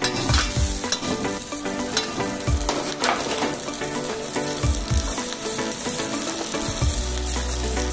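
Prawns and onions sizzling in hot oil in a black iron wok over a gas flame, with a metal ladle stirring and scraping against the pan a few times in the first half.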